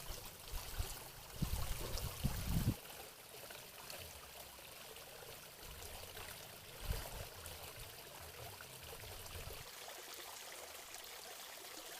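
Steady running water, a trickling stream sound, with low rumbling bumps in the first three seconds and once more about seven seconds in.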